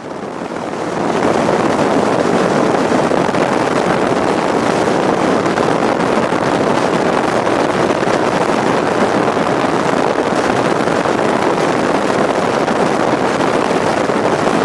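Steady rushing wind and road noise from a moving vehicle. It swells over the first second or so, then holds steady.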